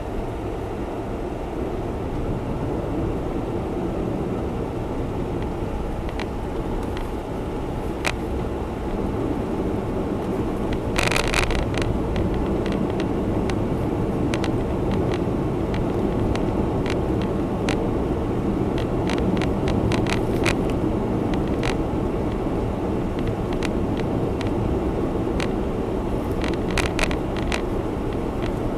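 Honda Zest Spark kei car being driven, steady engine and road noise heard from inside the cabin. A few sharp clicks come through, and there is a brief louder rush about eleven seconds in.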